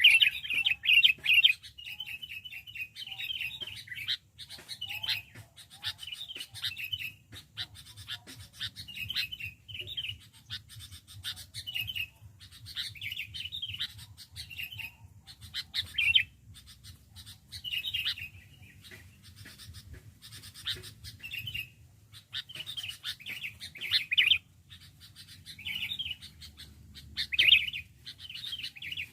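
Sooty-headed bulbul (kutilang) calling: short, bubbly chirping phrases repeated every second or two, over a faint steady low hum.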